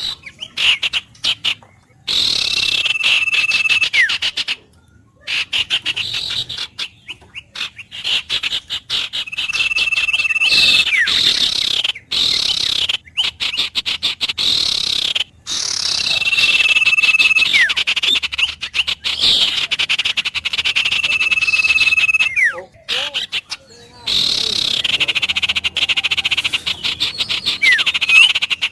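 Frogs calling in a dense, pulsing chorus, with a bird repeating a long steady whistle that ends in a falling slide about every six seconds. The sound cuts out briefly several times.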